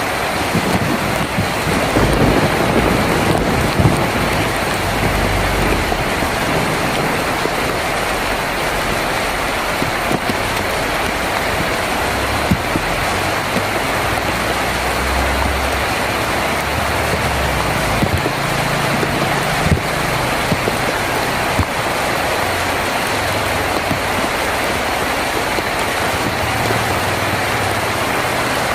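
Steady heavy rain falling on a tin roof, with a few sharp drop ticks and low rumbles of thunder coming and going underneath.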